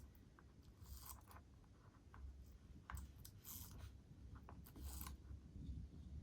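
A few faint, short scratchy clicks and scrapes of small metal parts of a model locomotive's running gear being handled and turned by hand, over a low background hum.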